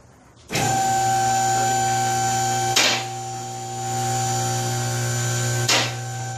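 Vehicle lift's electric hydraulic pump motor switching on about half a second in and running with a steady hum while raising the lift. Two sharp clicks about three seconds apart are the lift's safety catches dropping into place as it rises.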